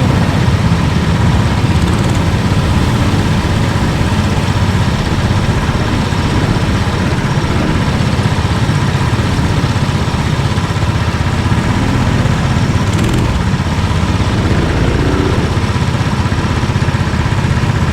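Kart engines running steadily on the track, a dense low engine drone with no clear rise or fall in pitch.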